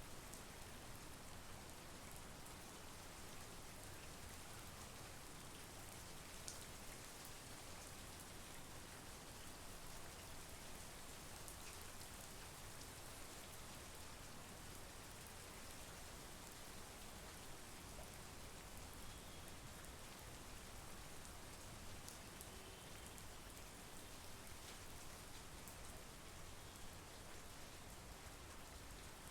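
Steady monsoon rain falling, a faint even hiss with an occasional single drop tick standing out.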